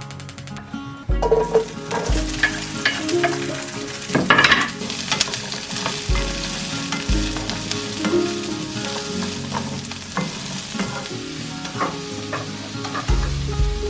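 Food sizzling in a hot frying pan while it is stirred, with scattered scrapes and taps of a utensil against the pan, loudest about four and a half seconds in. Soft background music plays underneath.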